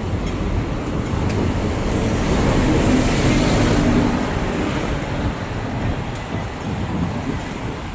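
Traffic noise, a steady low rumble, swelling as a vehicle passes about three seconds in and fading again.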